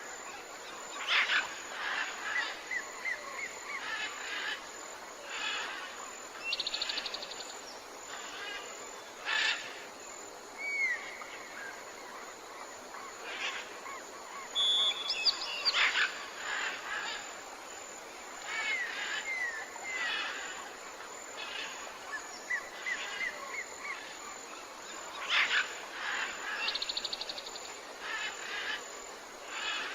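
Tropical forest birds calling over a steady background hiss: short curved whistles repeated in quick runs, fast buzzy trills, and sharp loud calls every few seconds.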